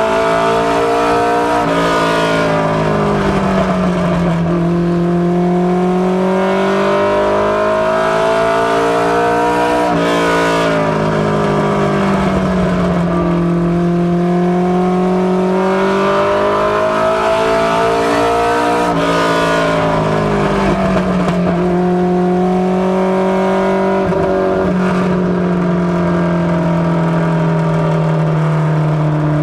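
Four-cylinder engine of a Mustang LX notchback mini stock race car running hard on laps. Its pitch dips briefly, then climbs steadily for several seconds before dipping again, a cycle that repeats about every nine seconds.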